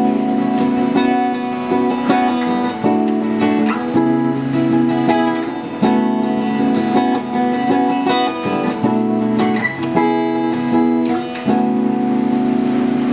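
Acoustic guitar strumming chords as an instrumental intro, changing chord every second or two, with no singing.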